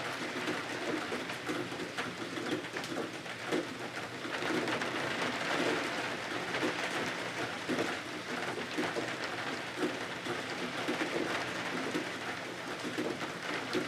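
Steady rain, a continuous dense patter with fine irregular ticks.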